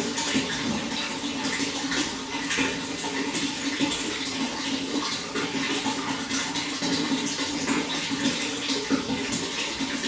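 Running water flowing steadily, a continuous rush with many small splashes.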